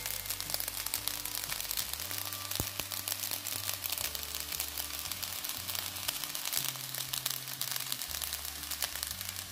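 Basmati fried rice with carrot, leeks and egg crackling and sizzling in a hot wok. Soft background music with a low bass line plays underneath.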